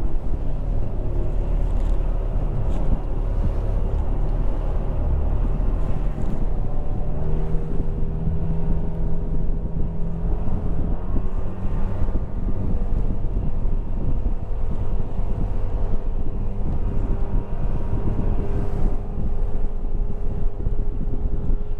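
Outboard motor of a 17-foot Arima Sea Chaser running with the boat under way, with heavy wind rumble on the microphone. The engine note steps up a little about seven seconds in and then holds steady.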